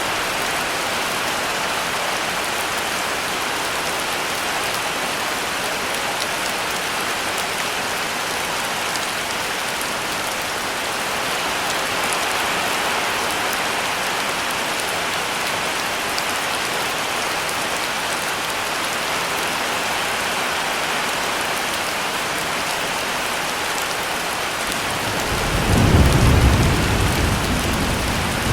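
Heavy rain falling in a steady, even hiss. Near the end, a low rumble of thunder swells up and fades away.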